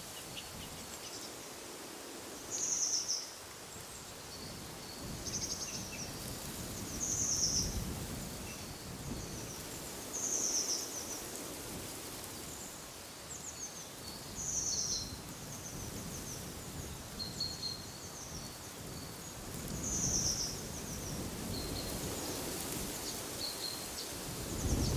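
Small birds giving short high chirping calls every few seconds over a steady rush of wind, with a few low gusts swelling up.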